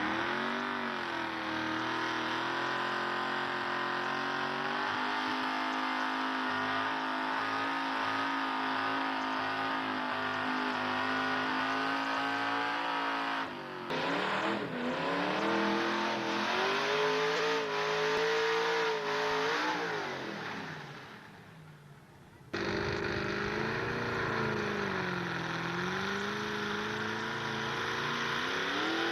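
Pulling truck's engine running hard at high revs under load, its pitch wavering up and down. The sound breaks off abruptly about 14 seconds in, dies away around 21 seconds, and cuts back in to another truck at full throttle at about 22 seconds.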